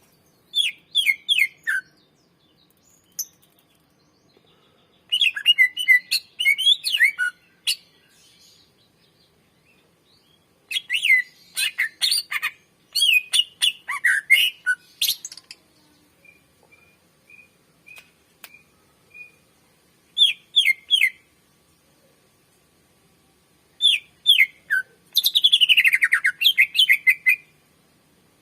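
Green leafbird (cucak ijo) singing: five bursts of rapid, sweeping whistled phrases with pauses of a few seconds between them. In the middle pause comes a faint run of short, evenly spaced notes.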